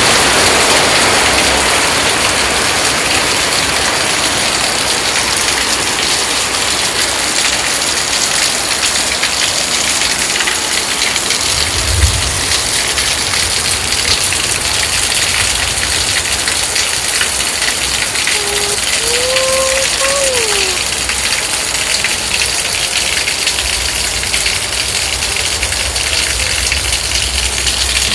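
Rain falling steadily, a constant hiss. A single low thump comes near the middle, and a few seconds later a faint kitten meow rises and falls.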